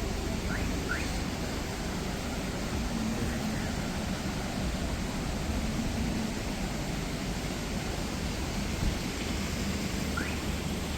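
Waterfall rushing: a steady, even wash of falling water, with a few faint short rising chirps near the start and again near the end.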